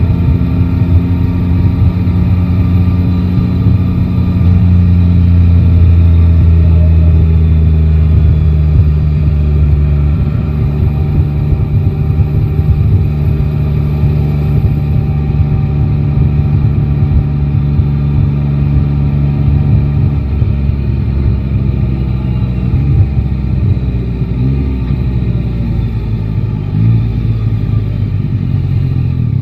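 Yamaha Tracer 9 GT's three-cylinder engine running under way at steady, moderate revs, heard from the rider's seat, its pitch sagging slowly over the first ten seconds and shifting a little later on, with road noise underneath.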